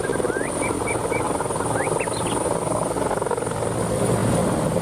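Helicopter rotor and engine running steadily with a fast rotor chop, cutting off abruptly at the end. Birds chirp in the background.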